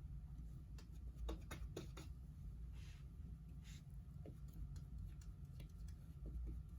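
Faint dabs and strokes of a paintbrush loaded with acrylic paint on canvas: a scatter of light taps and a couple of short brushing swishes, over a low steady hum.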